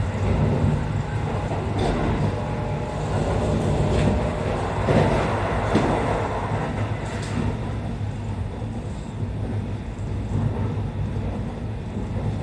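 Running noise of a Kintetsu 80000 series 'Hinotori' limited-express electric train, heard from inside the passenger cabin: a steady low rumble with a few faint clicks from the wheels and track.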